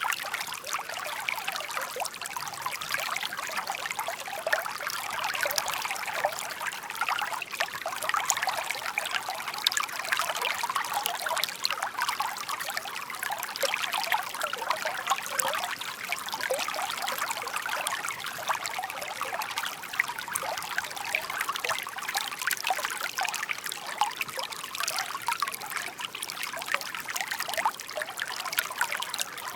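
Shallow brook water babbling and trickling over stones, a steady dense patter of small splashes with no deep rumble.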